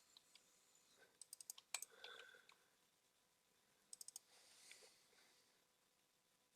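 Near silence broken by two faint clusters of quick computer keyboard clicks, one about a second in and another of three quick clicks about four seconds in.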